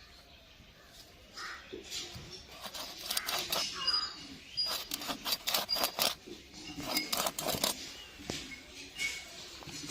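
Dao blade cutting through a chital fish: a quick run of sharp chops and scrapes from about two and a half seconds in until nearly eight seconds, then a few more near the end.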